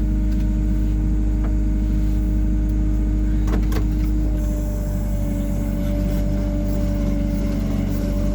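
Hyundai R140W-7 wheeled excavator's diesel engine running steadily under work, its pitch dropping slightly about halfway through. A few short knocks come a little before that.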